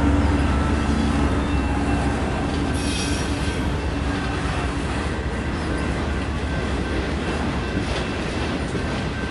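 Freight train of autorack cars rolling past: a steady rumble of steel wheels on rail with a thin, high wheel squeal. The diesel locomotives' low hum fades out over the first few seconds, and the whole sound slowly grows quieter.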